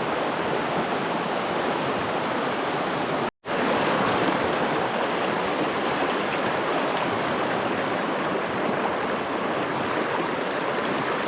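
River water rushing steadily over rocks, an even hiss. It cuts out completely for a split second a little over three seconds in, then carries on unchanged.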